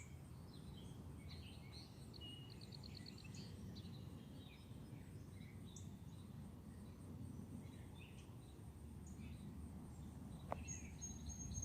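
Faint scattered songbird chirps and a short rapid trill about three seconds in, over a steady low background rumble.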